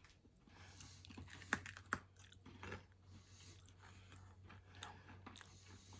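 Faint chewing and crunching of a hard sesame-seed candy, with two sharper cracks about one and a half and two seconds in.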